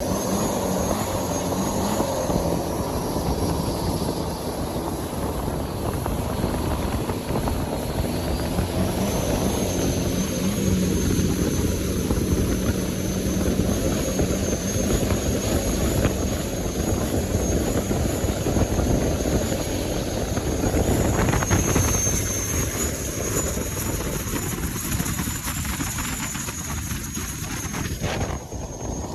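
Engine of a Thai long-tail boat running steadily at speed.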